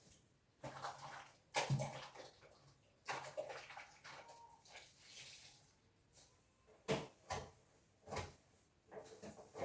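Water sloshing and splashing in a container, mixed with scattered knocks and clatters.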